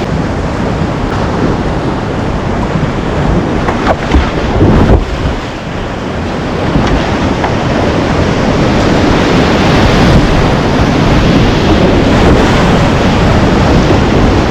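Whitewater rushing loudly around a kayak running a river rapid, with a few brief splashes about four to five seconds in and wind buffeting the microphone.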